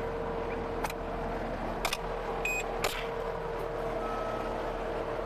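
Tracked skid steer engine idling steadily with a constant tone over its rumble, and three sharp ticks about a second apart.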